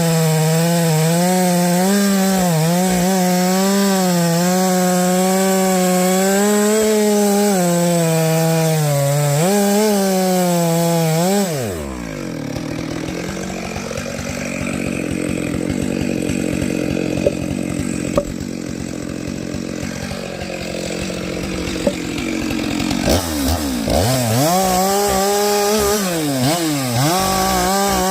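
Chainsaw cutting oak logs, its engine note wavering under load. About eleven seconds in it drops abruptly to a rough idle, then revs back up near the end with the pitch repeatedly dipping and rising.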